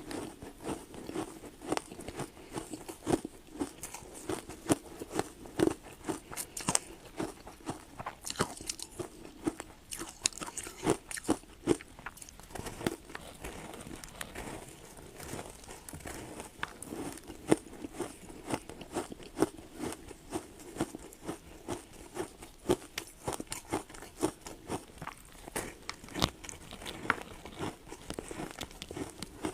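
A person biting and chewing ice: many sharp crunches in quick succession, several a second.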